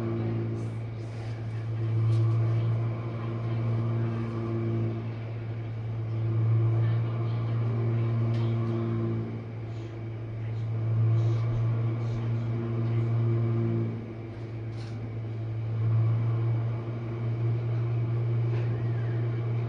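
Jenn-Air dishwasher in its main wash: the circulation pump motor hums steadily under water spraying inside the tub, the sound swelling and easing about every four to five seconds.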